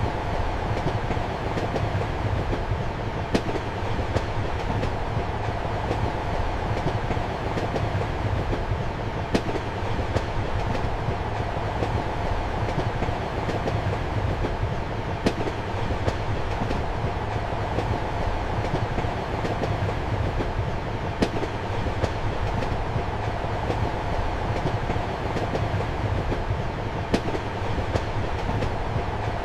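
Train running steadily, heard from inside a passenger compartment: a continuous low rumble and hum of the carriage with a sharp wheel click about every six seconds.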